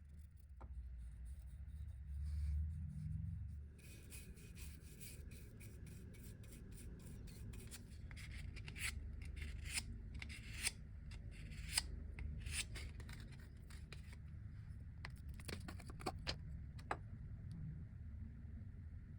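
Hand work on the coffee grinder's parts: irregular rubbing and scraping with sharp clicks and ticks starting about four seconds in, over a low steady hum.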